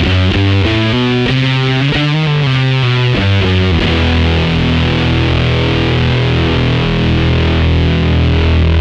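Electric guitar played through a BOSS FZ-1w fuzz pedal, with a thick distorted tone: a quick riff of changing notes, then a chord left ringing for several seconds, cut off right at the end.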